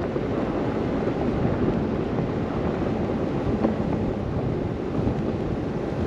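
Blizzard wind blowing in a steady, low rush, with no distinct events.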